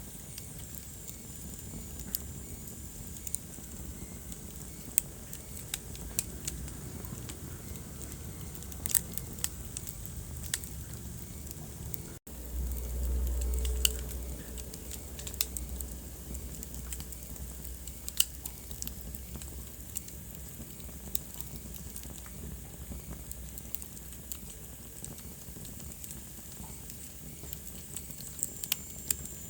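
Wood fire burning in a fireplace: a steady hiss with scattered sharp crackles and pops. About 12 seconds in the sound cuts out for an instant, then a low rumble runs for about a second and a half.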